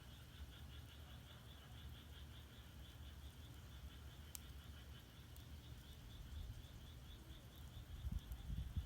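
Frogs calling in a steady, rapid pulsing chorus over the low rumble of firewood burning in an agungi firebox, with a single sharp crackle from the fire about halfway through.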